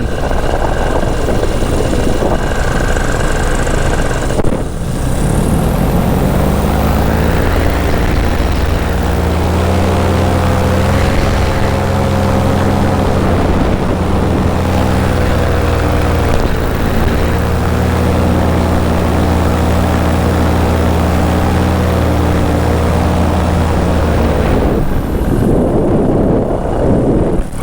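Paramotor engine and propeller running in flight with wind rushing over the microphone. There is a single loud thump about four seconds in. The engine throttles up shortly after, holds a steady drone, and throttles back near the end, leaving mostly wind.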